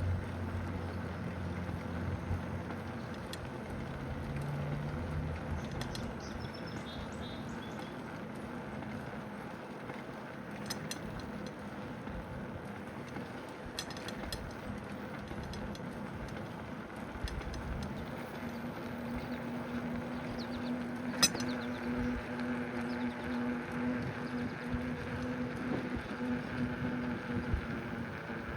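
Steady rolling noise from a moving bicycle ride, tyres and air rushing past. A low steady hum comes in about two-thirds of the way through, with a sharp click just before it peaks.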